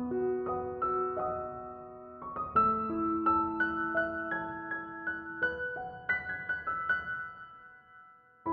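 Soft background piano music: slow single notes with held chords, fading out near the end.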